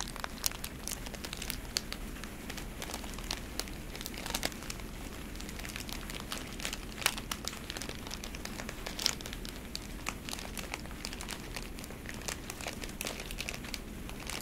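Plastic wrap inside a tea box crinkling in irregular, scattered crackles as it is handled and opened to get at the tea bags.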